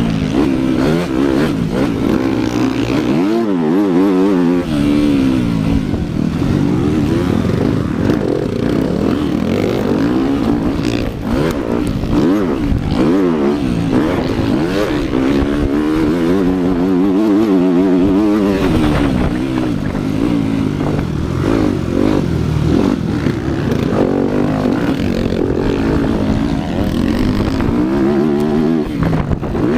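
Motocross bike engine revving up and falling back again and again, the pitch rising and dropping as the bike is ridden hard around a dirt track.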